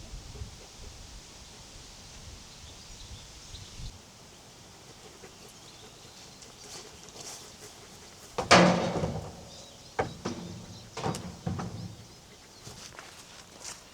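A farm animal bleating: one loud, drawn-out bleat about eight and a half seconds in, followed by a sharp knock and a few shorter calls.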